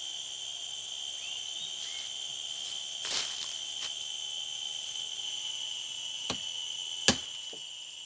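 Steady night chorus of insects, several high shrill tones held without a break, with a few sharp knocks or clicks, the loudest two near the end.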